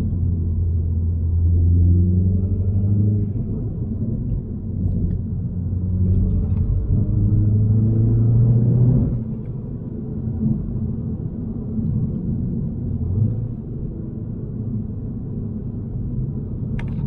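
MINI Cooper S's 2.0-litre turbocharged four-cylinder (B48) engine heard from inside the cabin, revs climbing under acceleration twice, then the throttle is lifted about nine seconds in and the engine settles into a lower steady drone with road rumble. A single sharp click comes near the end.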